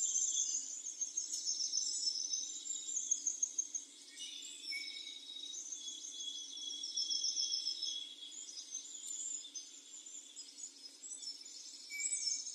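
Several small songbirds singing at once, high chirps and twittering phrases overlapping throughout.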